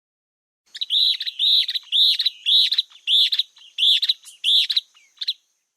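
A bird calling: a series of about nine clear, similar notes, roughly two a second, starting about a second in and stopping shortly before the end.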